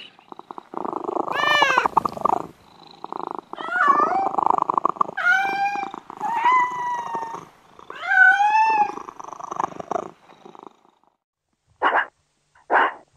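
Domestic cat purring, with about five meows over the purr. The purring stops a couple of seconds before the end, and two short, sharp calls from another animal follow.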